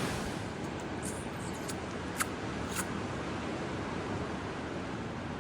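Steady rushing wash of ocean surf and wind, with a couple of brief high ticks about two seconds in.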